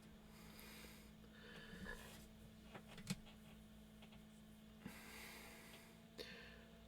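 Near silence: room tone with a faint steady electrical hum and a few soft clicks.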